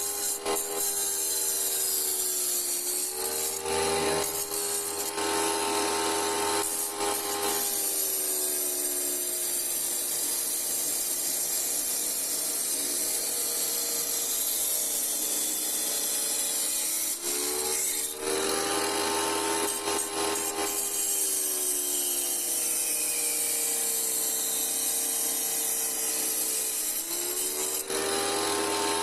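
Electric wet saw running, its blade grinding through a glass bottle with a continuous gritty hiss over the motor's whine. The motor's pitch sags a few times as the blade bites under load, then recovers.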